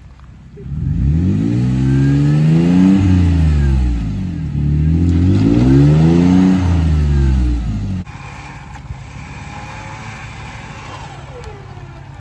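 Off-road truck engine revved hard twice, its pitch climbing and falling each time. About eight seconds in, it drops abruptly to a quieter, steady low running.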